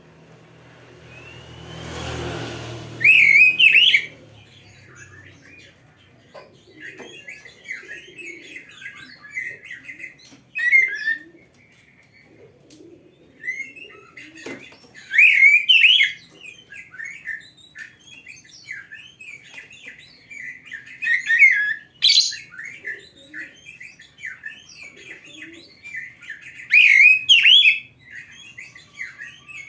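Oriental magpie-robin (kacer) singing a varied song of whistled and chattering phrases, with louder phrases every few seconds.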